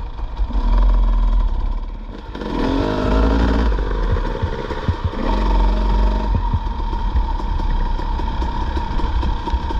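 Dirt bike engine running on a trail ride, the throttle opened in two stretches, about two and a half and about five seconds in, between lower running.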